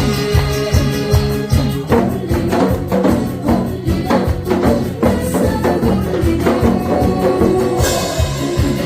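Janggu, the Korean hourglass drum, played along to upbeat backing music with a steady beat. The strokes get busier about two seconds in.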